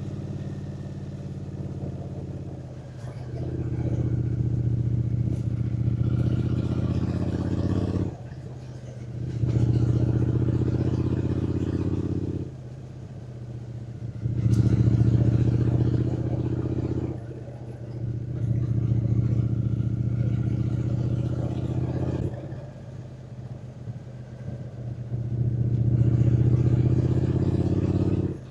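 Triumph Speed Twin 900's 900 cc parallel-twin engine riding along, pulling louder under throttle for a few seconds at a time and dropping back to a quieter run between, about five times.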